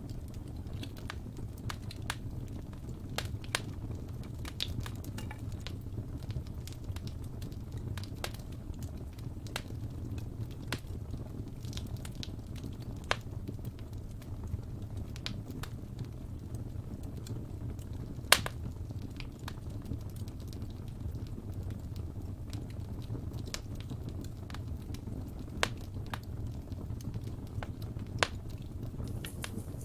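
Wood fire in a fireplace crackling, with irregular sharp pops and snaps over a steady low rumble of the flames; the loudest pop comes about halfway through.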